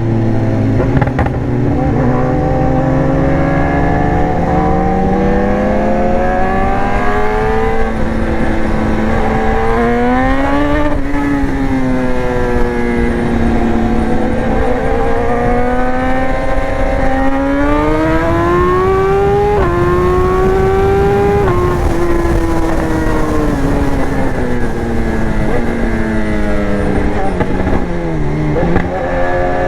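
BMW S1000R's inline-four engine under way, its revs climbing slowly, dropping briefly about ten seconds in, climbing again to a peak a little past twenty seconds, then falling away as the bike slows, with a quick dip and pick-up near the end. Wind noise runs underneath.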